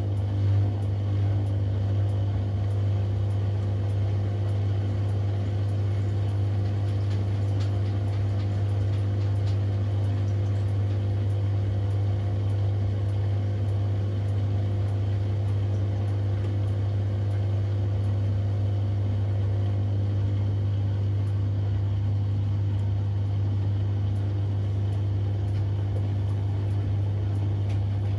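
Siemens Extraklasse XLs 140 A washing machine running mid-programme, a steady low hum with no pauses or changes in pitch.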